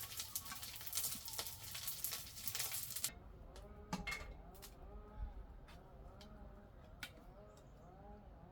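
A dense crackling hiss full of small pops, like food sizzling, that cuts off abruptly about three seconds in. A quieter stretch with a few scattered clicks follows.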